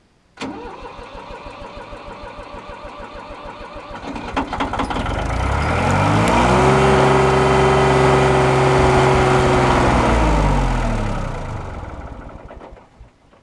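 1988 Yanmar 336D tractor's three-cylinder diesel engine firing up about half a second in, running roughly, then revving up from about four seconds in, holding steady, and winding down to a stop near the end. It is shut off because coolant is blowing out of the thermostat burp-valve line that mice had chewed.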